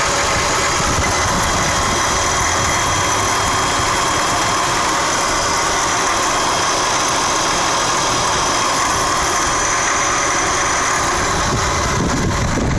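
Mazda RX-8 twin-rotor rotary engine idling steadily, heard up close at the alternator and accessory belt, with steady high-pitched whining tones over the running; this is the engine-bay noise the owner cannot identify. Wind rumble on the microphone comes in near the end.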